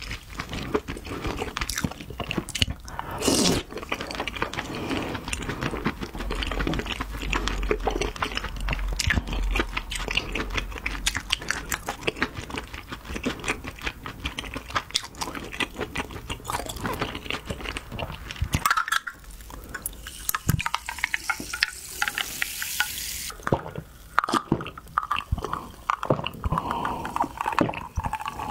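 Chewing and mouth sounds of eating crab meat and roe scooped from the shell: a dense run of short clicks and smacks. Near the end, sips from a glass of water.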